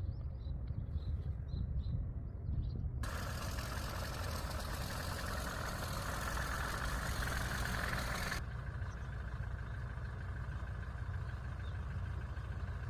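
A vehicle engine running steadily with a low rumble. For about five seconds in the middle, a loud hiss joins it, starting and stopping abruptly.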